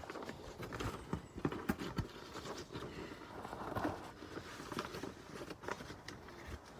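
A paper poster being folded and handled: rustling with irregular light taps and knocks.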